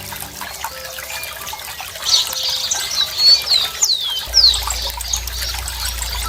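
Running water trickling steadily, with birds chirping over it. Midway there are two quick whistles that fall in pitch, and a low hum comes in about two-thirds of the way through.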